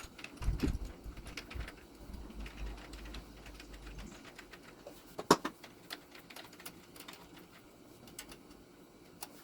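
Light clicks and knocks of hand tools and bolts as a new carburetor is bolted onto a lawn tractor engine, with a low rumble and thumps in the first few seconds and one sharper click about five seconds in.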